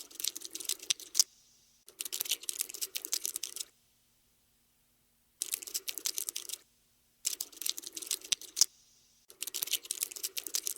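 Cockroach scuttling sound effect: rapid, dry clicking and skittering in five bursts of one to two seconds, with silent gaps between them.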